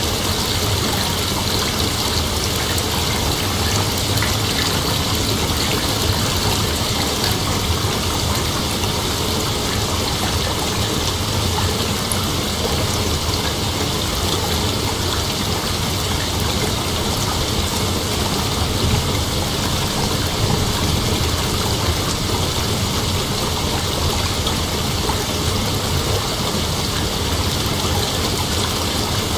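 Steady chorus of night insects, a dense unbroken hiss with no gaps or changes.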